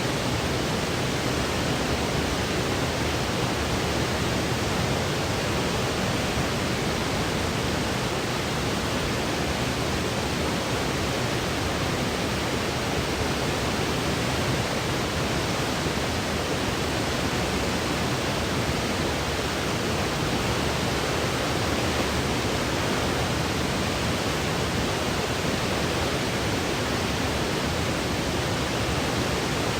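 Steady generated white noise: an even, unchanging hiss with no pauses or events.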